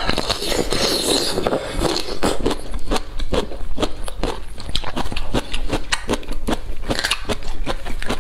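Close-miked crisp bite into a cooked bamboo shoot, followed by steady crunchy chewing of its crisp skin. A brief louder crackle comes near the end.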